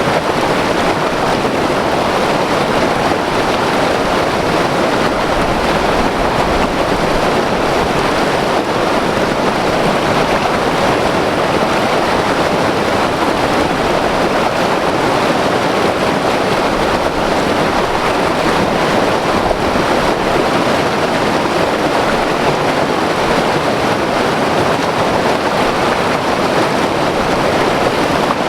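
White water river rushing over rocks: a loud, steady roar of churning water with no change throughout.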